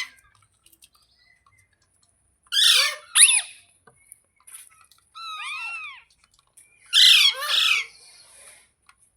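Pet parrot screeching: two harsh squawks about two and a half seconds in, a run of short chirps that rise and fall around five seconds, then another loud double screech about seven seconds in.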